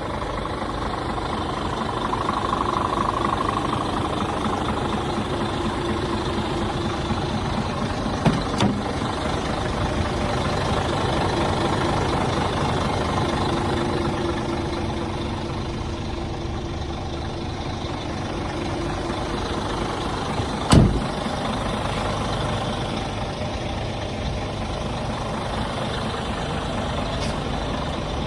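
Scania truck's diesel engine running steadily. There is a short sharp click about a third of the way in, and a louder knock about three-quarters of the way through.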